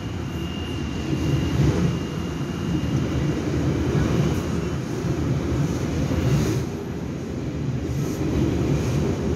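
Taiwan Railway Puyuma tilting express train (TEMU2000) running along an underground station platform: a steady low rumble of wheels and motors on the rails, with a thin high whine over the first few seconds.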